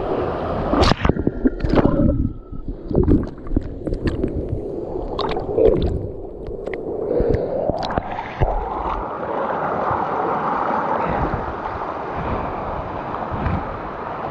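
Rushing waterfall water with wind buffeting the microphone. A string of sharp knocks and bumps comes in the first eight seconds, then the rush goes on steadily.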